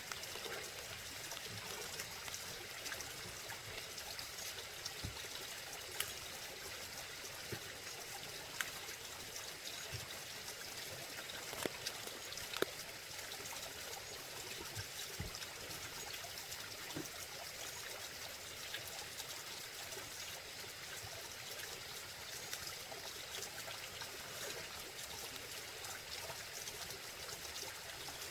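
Running water trickling steadily, with a few sharp clicks about 6 and 12 seconds in.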